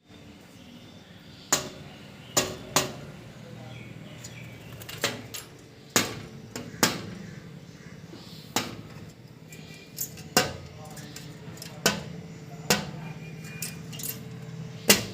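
Woodpecker pecking a hard surface: single sharp knocks, each with a short ring, coming irregularly about once a second rather than as a fast drumroll.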